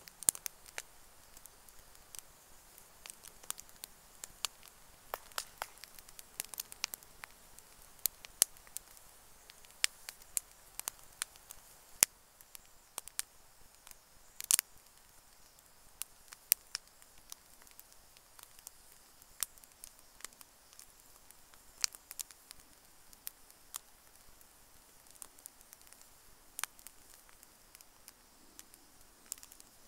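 Campfire crackling: irregular sharp pops and snaps of burning wood over a faint steady hiss, with a few louder pops.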